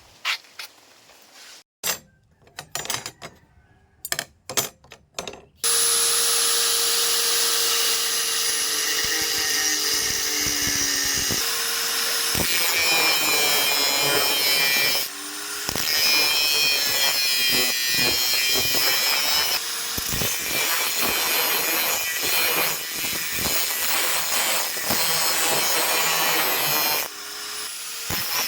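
A few separate knocks and taps. Then, about five seconds in, a power tool starts and runs steadily under load, its motor pitch sagging and shifting as it works the material. It eases off briefly about halfway and again near the end.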